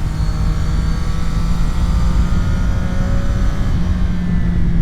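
CFMOTO 675 SR-R sport bike's 675 cc inline-triple engine pulling under way, its note rising slowly as the bike gains speed, then stepping near the end, over a steady low rumble of wind and road noise.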